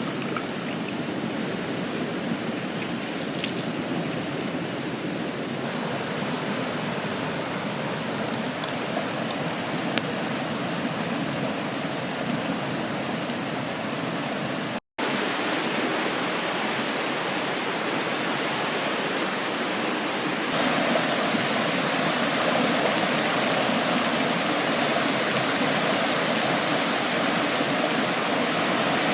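Steady rushing of a river's flowing water. It breaks off for an instant about halfway and is a little louder for the last part.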